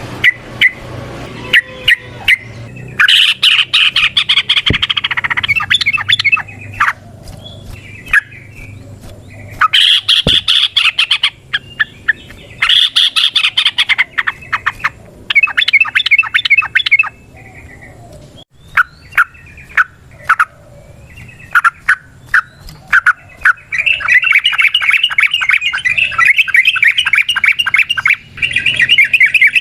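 Yellow-vented bulbul (trucukan) singing: several bursts of fast, rapidly repeated chattering notes, each lasting a few seconds, with single sharp call notes between them. The longest burst comes near the end.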